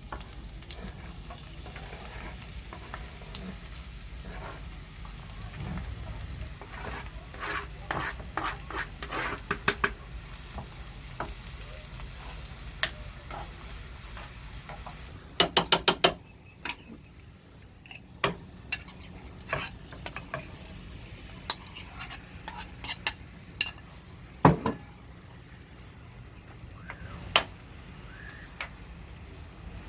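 Food sizzling in a frying pan while a utensil stirs and taps against the pan, with a quick run of sharp clicks about halfway through and single taps after it.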